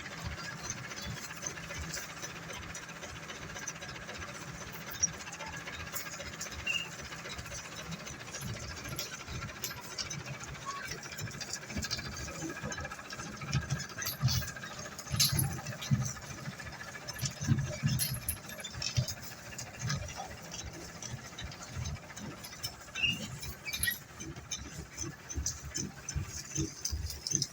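Road-construction machinery working: a steady mechanical rattling with scattered sharp clicks, turning heavier and more uneven with louder low knocks from about halfway through.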